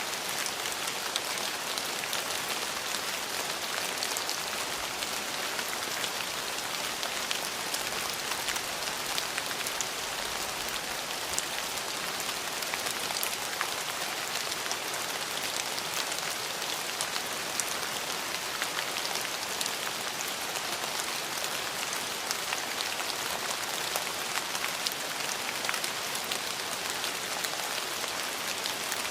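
Steady rain falling on hard surfaces, an even hiss flecked with the crisp patter of individual drops.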